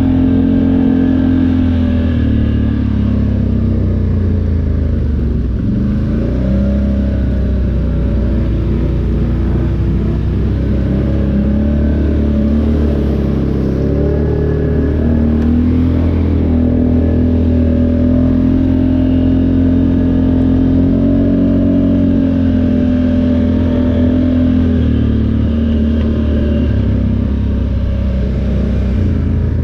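ATV engine running under load while being ridden, its revs rising and falling again and again.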